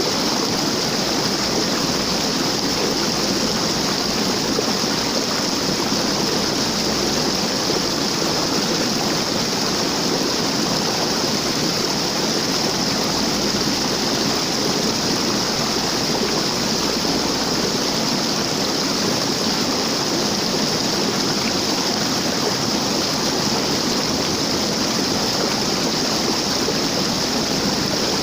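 Waterfall: steady rushing and splashing of falling water, unchanging throughout.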